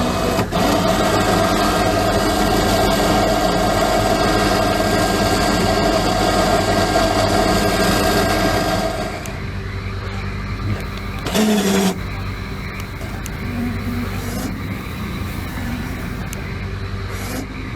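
Off-road vehicle engine held at high, steady revs for about nine seconds, then dropping back to a low idle; a brief loud burst comes about eleven and a half seconds in.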